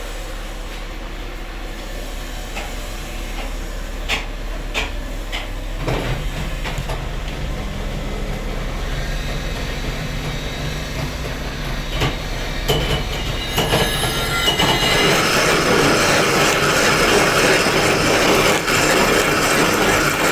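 A machine runs with a steady low hum. About two-thirds of the way through, a louder, harsh grinding noise with a high squeal sets in.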